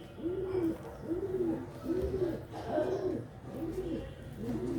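A bird cooing: a steady run of low, rounded coos, each rising and falling in pitch, about one a second.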